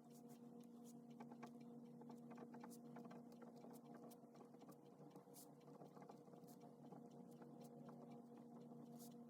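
Near silence: a faint steady electrical hum with scattered light clicks and ticks.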